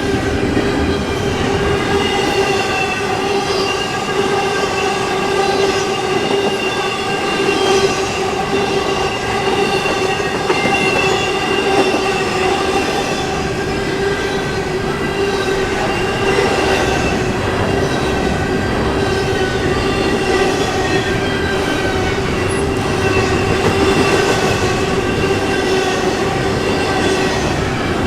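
Intermodal container train rolling past at steady speed, with a continuous rumble of wheels on rail and a steady high metallic squeal from the wheels.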